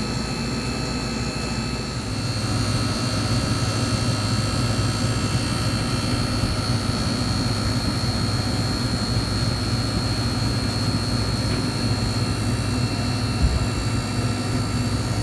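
Refrigeration equipment running with a steady machine hum and a couple of steady whining tones. The low hum grows louder about two seconds in, and there is one brief low thump near the end.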